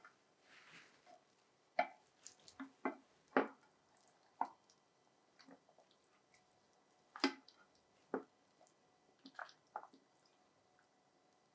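Serving utensil scooping chicken in peanut sauce out of a saucepan onto a plate: scattered soft clinks and knocks against the pan and plate, with wet squishing of the sauce.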